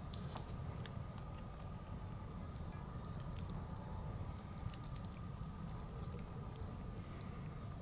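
Wood bonfire burning, with scattered sharp crackles and pops over a low, steady rumble.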